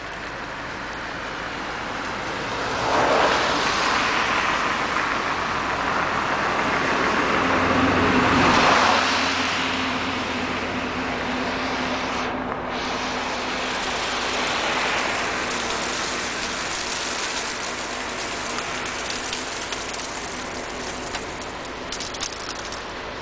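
Steady hiss of freezing rain falling, with a motor vehicle passing on the wet road: it swells from about three seconds in, peaks around eight to nine seconds, then fades back under the rain.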